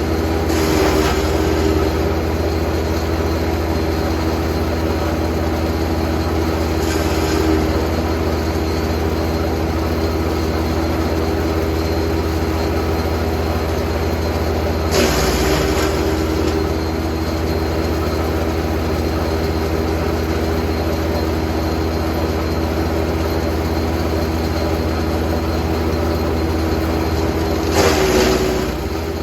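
Jansen GTS 1500e wood chipper running steadily, with short bursts of chipping noise as branches are fed in, about four times; at the louder bursts the engine note dips briefly under the load and then recovers.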